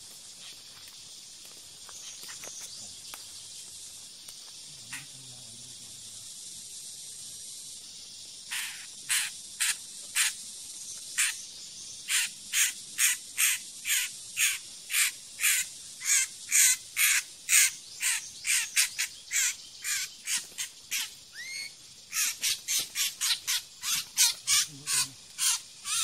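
A steady high insect drone, then from about eight seconds in a trapped bird gives loud, harsh distress squawks, about two to three a second, while it is handled at the trap.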